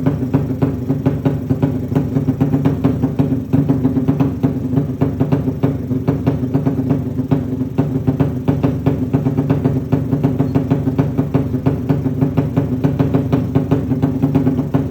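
A 200 cc motorcycle engine idling steadily through an aftermarket exhaust muffler, with an even, regular beat of exhaust pulses.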